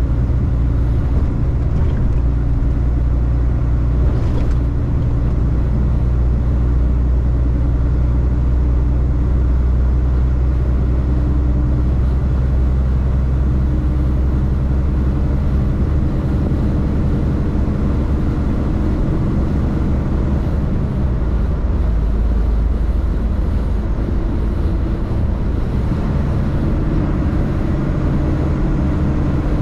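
Semi truck's diesel engine running steadily while driving, with road noise; the engine's pitch shifts a few times, around the middle and again near the end.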